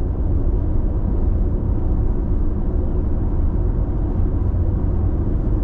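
Steady road noise of a car cruising on an expressway, heard inside the cabin: a constant low tyre and engine rumble with no separate events.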